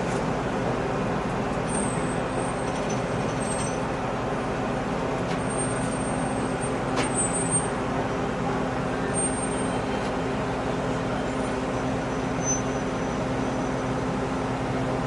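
Steady rumble of a diesel-hauled passenger train in motion, heard from aboard, with a constant low hum running under it. Faint short high squeals come and go, and there is a single click about seven seconds in.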